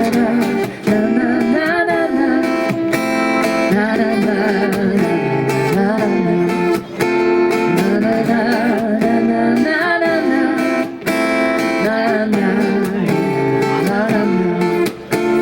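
Acoustic guitar strummed steadily with a wordless sung melody over it, the playing easing off briefly about every four seconds.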